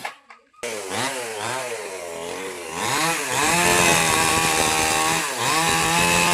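Small two-stroke petrol mini chainsaw starting up: the engine catches just over half a second in, is revved up and down a few times, then held at high revs with brief dips.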